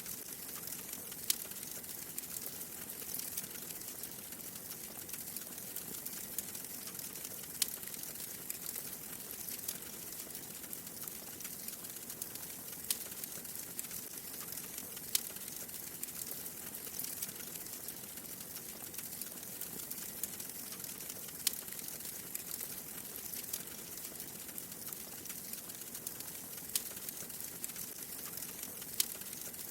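Wood fire burning in a fireplace: a steady soft crackle with sharp pops every few seconds.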